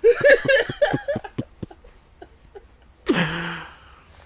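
A man chuckling in short bursts, then, after a pause, one short breathy vocal grunt that falls in pitch.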